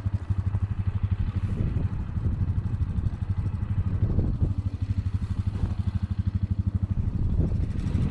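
ATV engine running with an even, rapid low pulse.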